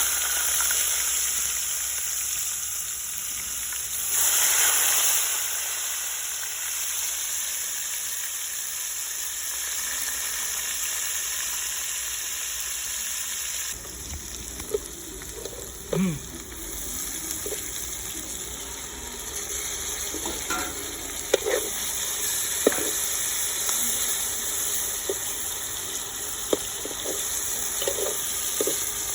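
Fish frying in hot oil: a steady, dense sizzle. About halfway through the sizzle eases a little and scattered short clicks and taps come through it.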